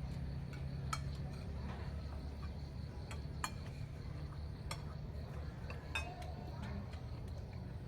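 Irregular light clicks and clinks, about one or two a second, over a steady low hum.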